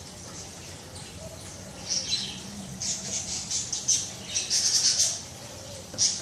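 Pet budgie chirping and chattering in a run of short, scratchy, high-pitched calls starting about two seconds in, with a last chirp near the end.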